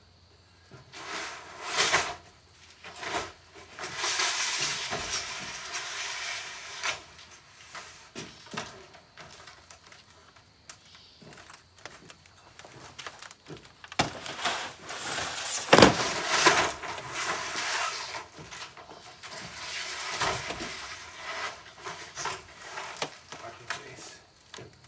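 Sheets of tin paneling being slid along a truck bed and handled, with stretches of scraping and clatter and sharp knocks. The loudest bang comes about sixteen seconds in.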